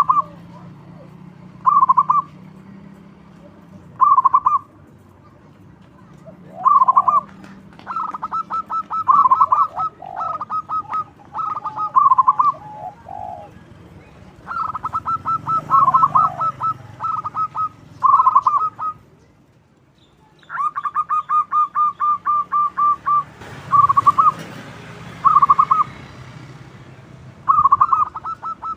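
Zebra dove cooing: short phrases of quick staccato coo notes every couple of seconds, then longer rolling runs of rapid notes, over a low steady hum.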